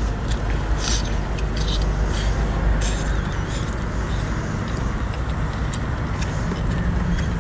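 Chewing and sucking on a sea snail, with a few short sharp mouth clicks, over a steady low rumble.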